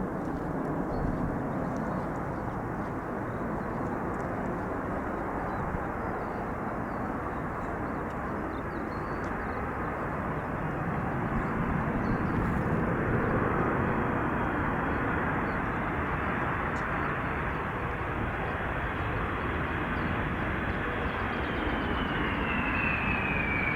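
Airbus A330-300 airliner's Pratt & Whitney PW4000 engines on approach, a steady rushing noise that grows a little louder. Near the end a high fan whine comes in and falls in pitch as the aircraft passes.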